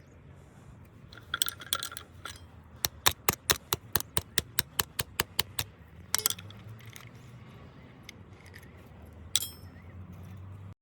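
Metal tools striking metal on a truck gearbox: a rapid, regular run of about fifteen sharp metallic taps, roughly five a second, with a few scattered clinks before and after.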